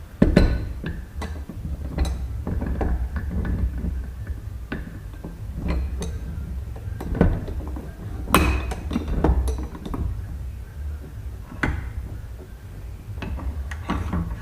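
Irregular metal clinks and knocks as the cast oil filter housing of a YaMZ-240 diesel and the tools on it are handled, a dozen or so sharp strikes, over a steady low hum.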